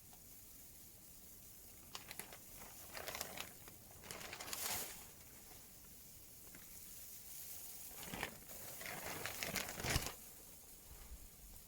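Rustling and crinkling in two bursts, one starting about two seconds in and one about eight seconds in, over a faint steady hiss.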